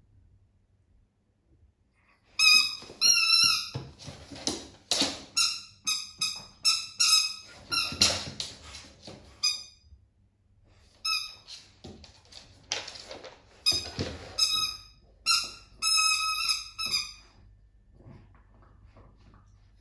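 Squeaky dog toy squeezed over and over: runs of short, high squeaks starting about two seconds in, pausing briefly around the tenth second, then a second run that stops a few seconds before the end, mixed with a few duller rustling squeezes.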